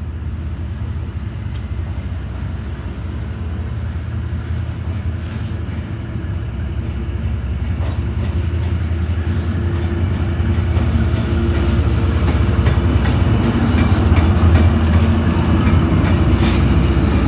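D19E diesel-electric locomotive running as it approaches and passes at close range, its low engine rumble growing steadily louder to a peak near the end. In the second half the passing coaches' wheels click over the rails.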